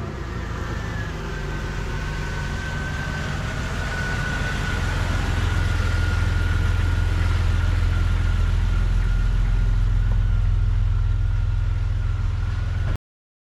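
2000 Jeep Cherokee's engine running at low speed as the Jeep drives past and pulls in, getting louder over the first several seconds, with a thin steady whine above the engine note. The sound cuts off abruptly near the end.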